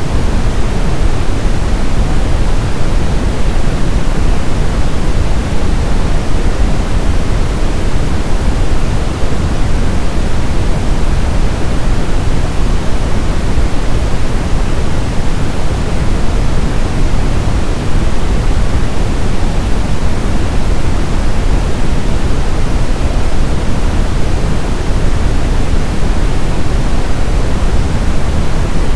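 Brown noise: a steady, loud, even hiss-rumble, strongest in the deep low end and falling away toward the treble, without any change.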